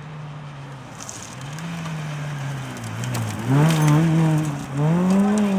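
Fiat Cinquecento rally car's engine under hard running. Its pitch dips and climbs again several times, as with gear changes, and it grows much louder about three and a half seconds in.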